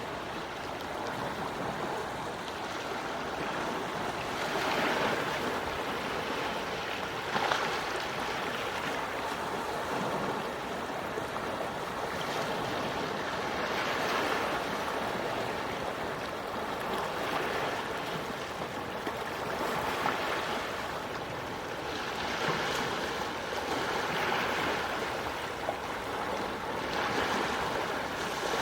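Quiet sea waves washing ashore: a steady hiss of surf that swells every two to four seconds as each small wave breaks.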